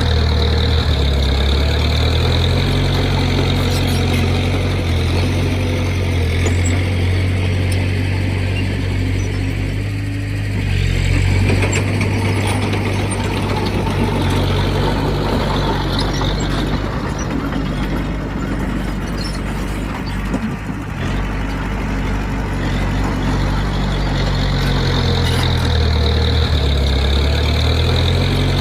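Heavy diesel engine of a construction machine (bulldozer or dump truck) running continuously, its low note shifting as the load changes, with a dip about ten seconds in and again about twenty seconds in.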